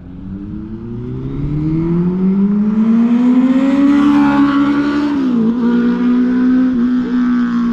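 Kawasaki ZX-10R inline-four engine running through an aftermarket Toce exhaust, revving up smoothly over about four seconds and then holding at high revs, with a brief dip about five seconds in.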